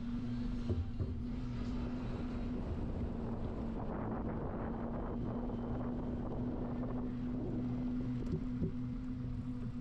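Wind rushing over the microphone of a bicycle-mounted action camera while riding, over a steady low hum. The noise grows rougher for a few seconds around the middle.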